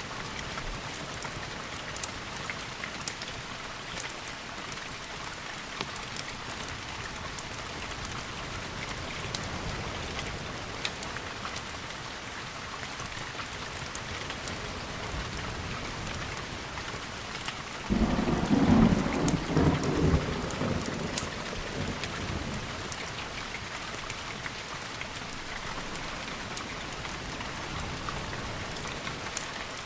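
Steady rain falling, with a sudden clap of thunder a little past halfway that rumbles low for a few seconds and fades.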